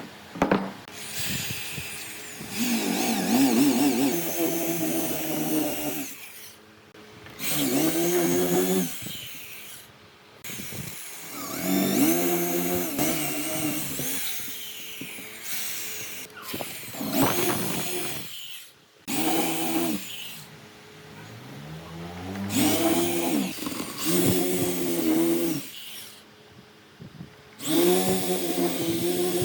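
Electric power tool motor run in repeated bursts of one to three seconds, about nine times, its pitch dipping and rising within each run as it works the wood.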